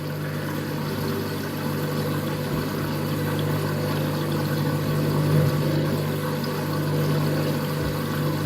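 Washing machine running with a steady motor hum, overloaded with detergent so that suds fill the drum and press against the door.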